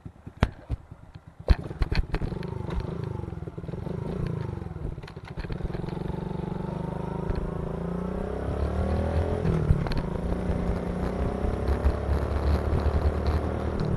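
Kawasaki KLX110 pit bike's small single-cylinder four-stroke engine. It is faint for the first second or so, then there is a sharp knock and the engine note comes up, climbing in pitch midway and then running steadily.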